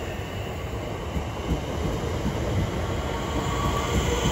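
Southeastern Class 465 Networker electric multiple unit pulling out of the platform: a steady rumble of wheels and traction motors that grows a little louder toward the end.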